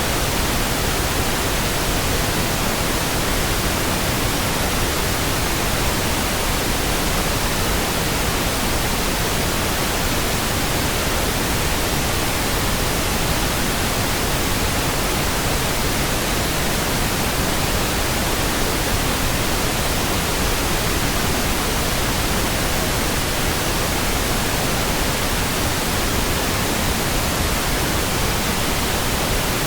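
Steady pink noise, an even hiss with no changes or sudden sounds.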